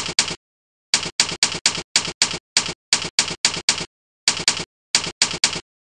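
Typewriter-style keystroke sound effects played by the Jingle Keyboard program, one sample per key pressed, in irregular runs of two to five quick clacks with dead silence between them.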